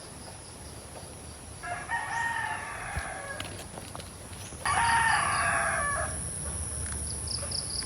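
A rooster crowing twice, each crow about a second and a half long, the second one louder.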